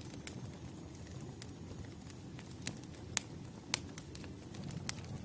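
Campfire crackling: a low, steady rustle of burning wood with scattered sharp pops, the loudest a little after three seconds in.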